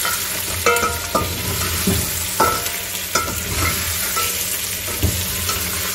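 Mutton and masala frying in oil in an aluminium pot, sizzling steadily, while a metal spoon stirs and scrapes through it, knocking against the pot several times with short metallic rings.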